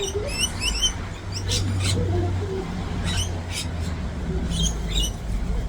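Rosellas and other parrots calling while they feed: quick, repeated rising chirps, with a few louder, harsher squawks about a second and a half and three seconds in.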